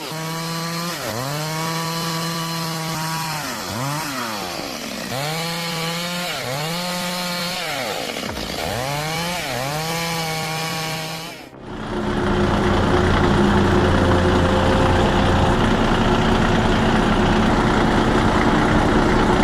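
Stihl MS 382 two-stroke chainsaw running in a lengthwise cut through a log, its engine speed sagging under load and picking back up several times. About eleven seconds in, it gives way abruptly to a louder, steady machine noise with a low hum.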